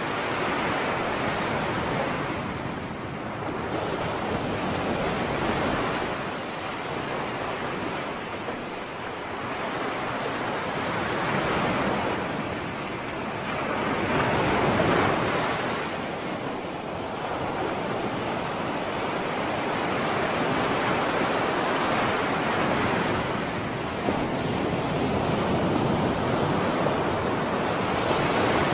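Sea surf: waves washing onto the shore, the rush of water swelling and falling back every few seconds.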